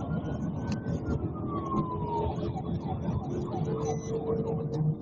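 Police car siren wailing in one slow rise and fall of pitch, over steady road and engine noise.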